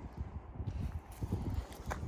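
A dog's paws thumping and clicking in quick, irregular steps as it scrambles excitedly out of a vehicle.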